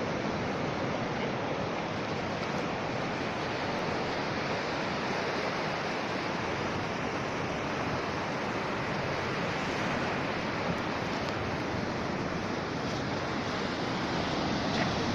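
Sea surf washing steadily onto the shore, mixed with wind buffeting the microphone.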